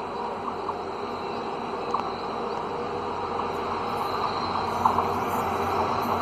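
WDP4-class diesel locomotive and its passenger train approaching slowly while slowing for a station stop. Steady engine and wheel noise grows gradually louder, with a few short squeaks from about two seconds in.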